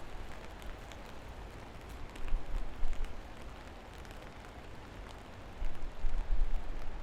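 Steady rain falling with scattered individual drips, under a low rumble that swells about two seconds in and again near the end.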